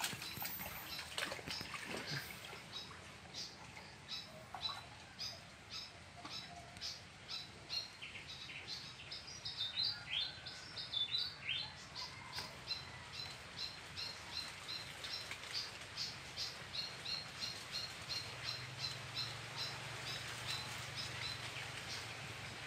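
A bird calling with a long run of short, high chirps repeated about twice a second, broken about ten seconds in by a brief spell of more varied, sliding notes.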